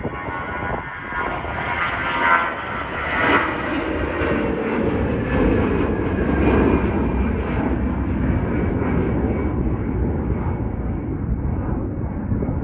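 Airliner passing at close range: a loud, steady rush of engine noise.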